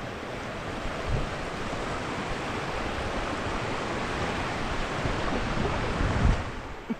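Rushing whitewater of a river rapid around a raft, a dense steady rush that builds and then eases near the end. Low thumps of wind buffeting the microphone come about a second in and again around six seconds.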